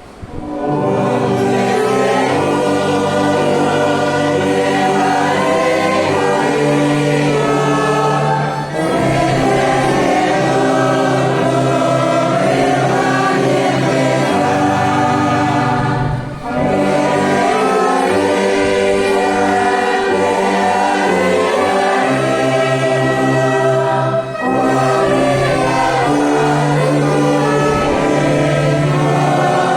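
A congregation singing a hymn together with an orchestra. The chords are held steady and the lines break briefly about every eight seconds.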